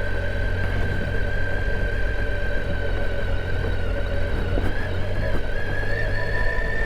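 Triumph Tiger 800 XCa's 800 cc three-cylinder engine running steadily on a slow off-road ride, heard inside the rider's helmet, with a steady whine that rises slightly in pitch near the end.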